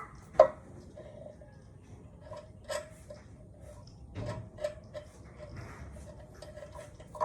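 A handful of sharp knocks and clicks at irregular intervals, the loudest about half a second in, from hard objects being handled and set down.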